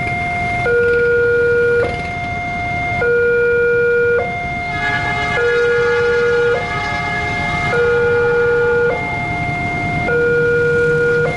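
Railway level-crossing warning alarm sounding a two-tone signal, alternating steadily between a low and a higher note about every second, warning that a train is coming. For a few seconds near the middle, a second pitched sound with several notes joins it.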